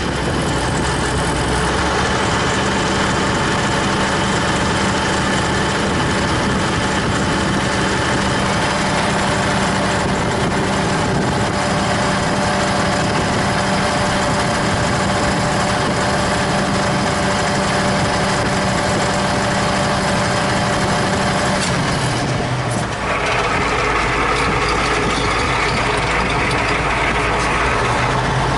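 T-150K tractor's diesel engine running steadily. About 22 seconds in its note changes: the low hum drops and a higher whine comes up.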